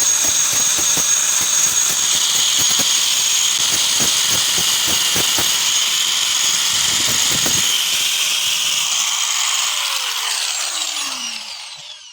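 Electric power tool running steadily at high speed, with irregular knocks under it, then switched off about ten seconds in and spinning down to a stop.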